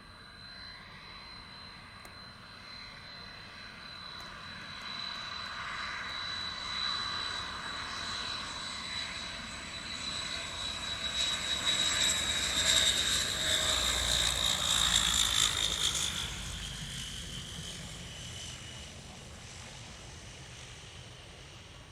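YS-11FC's Rolls-Royce Dart turboprop engines flying past, with a high steady whine over a rumble. It grows louder, peaks a little past halfway, then drops slightly in pitch and fades as the aircraft goes by.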